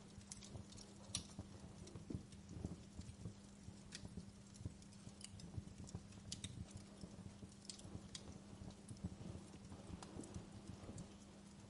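Wood fire crackling, with sharp irregular pops and snaps over a faint steady hum.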